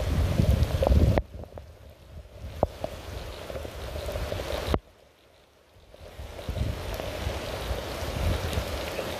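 Rain falling with scattered drips, over a low rumble in the first second. It cuts out abruptly about a second in and again near the middle, going almost silent for about a second before the rain returns.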